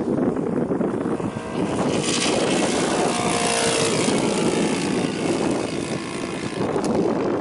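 Saito FG-40 four-stroke gasoline engine of a radio-controlled scale model airplane running at power with its propeller, getting louder and brighter about two seconds in, with its pitch falling around three to four seconds in.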